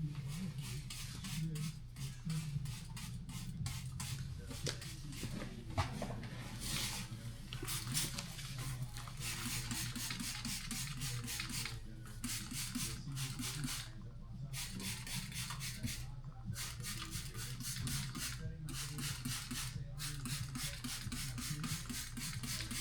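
Rhythmic scrubbing, several quick strokes a second with a few short pauses, over a steady low hum.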